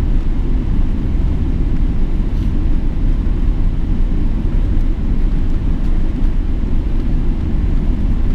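Steady low rumble of a Boeing 777-300ER on the move.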